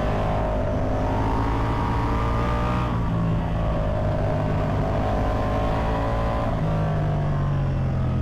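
Ducati Multistrada V4 Pikes Peak's V4 engine running at fairly steady revs while riding, its pitch easing down and back up a little a few times.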